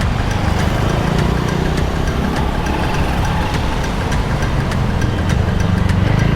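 Motor vehicle engine running close by in city traffic: a steady low rumble with a fast, even ticking, about five ticks a second.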